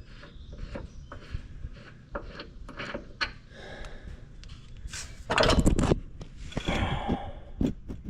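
Handling noise from working on a riding mower's cutting deck: scattered clicks, knocks and metal clinks, with a louder scraping rattle a little past halfway and a shorter one just after it.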